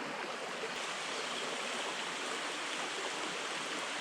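Small spring-fed stream flowing steadily, an even rushing of water.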